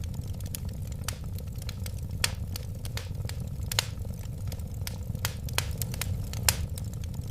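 Wood fire crackling, with irregular sharp pops a few times a second over a steady low rumble of the flames. A couple of pops stand out louder, near the middle and toward the end.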